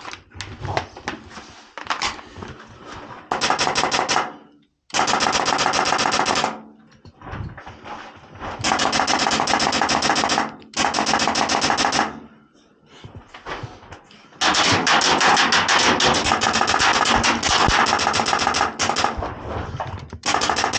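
Airsoft rifles firing full-auto in long bursts of rapid, evenly spaced shots, several bursts of one to two seconds, then one of about six seconds in the second half.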